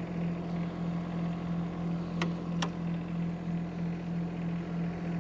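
Mini excavator's engine running steadily a little above idle, an even hum. Two sharp clicks sound a little over two seconds in, about half a second apart.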